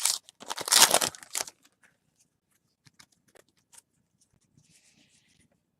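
Foil wrapper of a baseball card pack being torn open and crinkled for about the first second and a half, followed by faint clicks and a soft rustle as the cards inside are handled.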